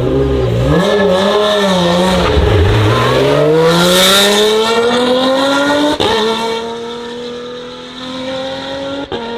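Lotus Emira GT4 race car's supercharged 3.5-litre V6 at full throttle: the revs waver, dip about two and a half seconds in, then climb steadily to an upshift about six seconds in and keep rising after it.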